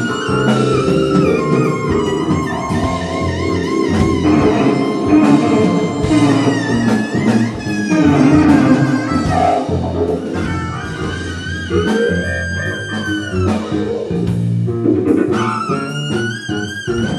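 A live Korean traditional–jazz fusion band is playing. A high lead melody with wide vibrato and bent, sliding notes runs over electric bass and drum kit.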